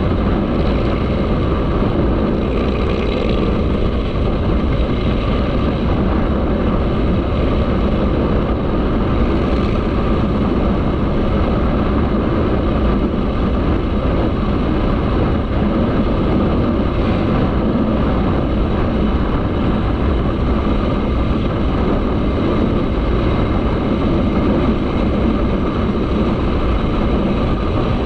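Motorcycle running while being ridden, its engine drone mixed with steady wind noise on the microphone, holding an even pace with no sharp changes.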